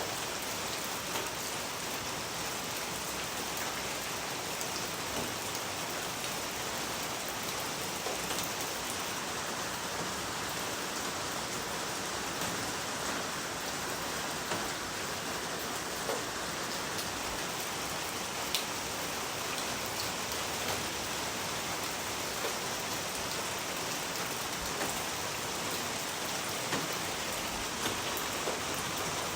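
Steady rain falling and pattering on a surface, an even hiss of dense rainfall with scattered individual drops standing out.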